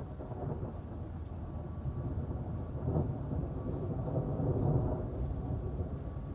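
Rolling thunder rumbling over steady rain, swelling about three seconds in and easing off near the end.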